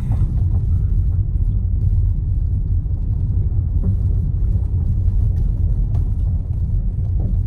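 Car moving slowly, heard from inside the cabin: a steady low road-and-engine rumble.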